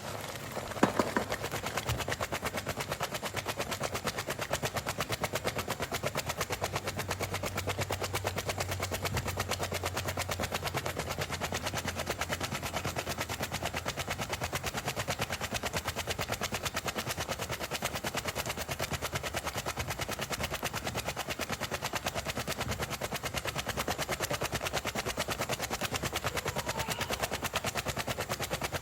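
Cooking pot clattering in a fast, steady rhythm that sounds like a train, after a sharp knock about a second in.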